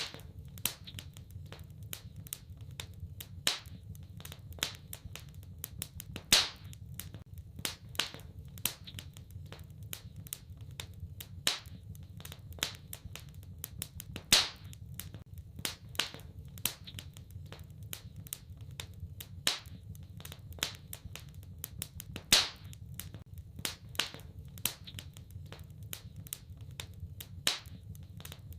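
Wood fire in a fireplace crackling: irregular sharp pops and snaps, a handful of them much louder, over a steady low rumble.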